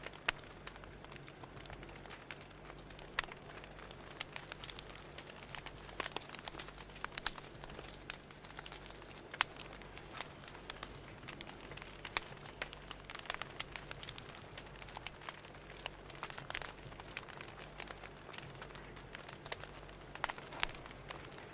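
Fire crackling: irregular sharp pops and snaps, several a second, over a low steady hiss.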